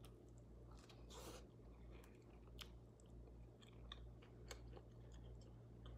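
Faint chewing of an air-fried broccoli and cheese bite, with scattered small mouth clicks.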